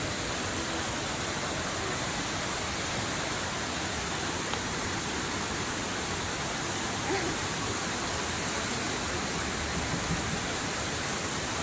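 Waterfall rushing close by: a steady, unbroken wash of falling water.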